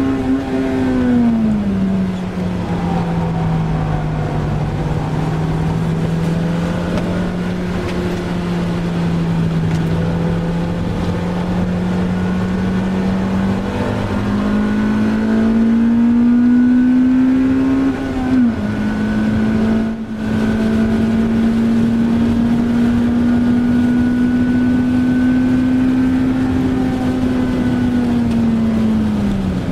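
Honda Civic Type R EP3's four-cylinder engine heard from inside the cabin at speed on a wet track. The engine note falls early on as the car slows, holds steady, then climbs and drops sharply with an upshift about 18 seconds in. It holds again and falls near the end, over a steady hiss of tyre spray and rain.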